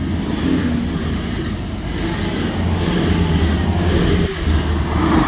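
Two trains passing through the station together: a steady rush of wheels on the rails with a low diesel engine hum underneath.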